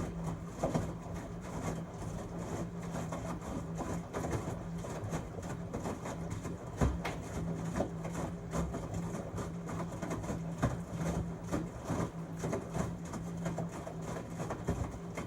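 13-year-old LG Tromm WD-CR101C front-loading drum washing machine running its quick-wash cycle: a steady low hum with many irregular knocks and clicks over it.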